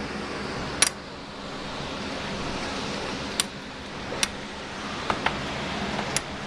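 Strong storm wind rushing with a steady noise, broken by several sharp clicks or knocks, the loudest about a second in.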